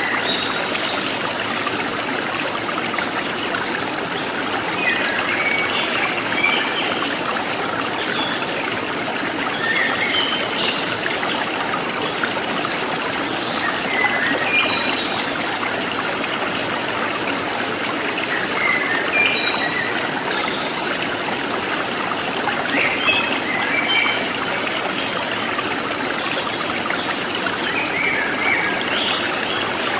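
A small forest stream trickling and splashing steadily, with short chirps from wild birds every few seconds.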